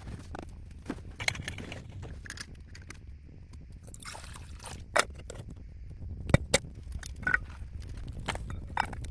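Twigs and dry forest litter crackling and snapping in irregular sharp snaps, the loudest about five seconds and six and a half seconds in, over a low steady rumble.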